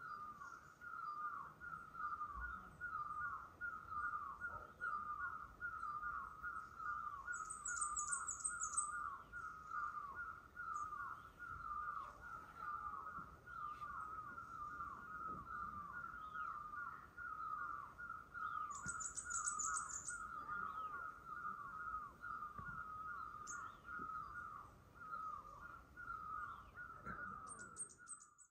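Birds calling: one short call repeated steadily about two or three times a second, with brief high trills twice. It cuts off suddenly at the end.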